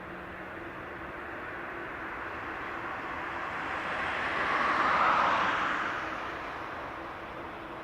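Boeing 787-8's GEnx turbofan engines, a steady jet roar that swells to its loudest about five seconds in and then eases off as the airliner passes.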